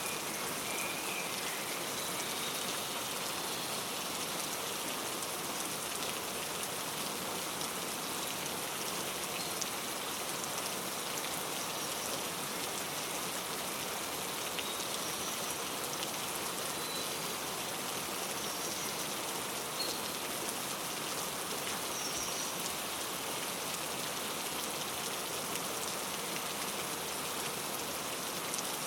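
Steady rain falling and pattering on surfaces, with a few short, faint bird chirps scattered through it.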